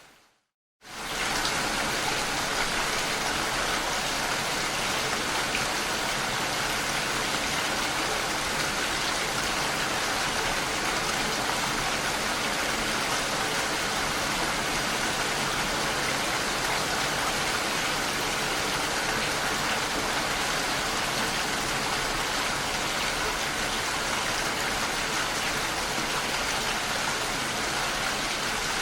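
Steady rain, a dense even hiss of falling drops. Within the first second it drops out to a brief silence and comes straight back, as the recording fades out and back in at a loop point.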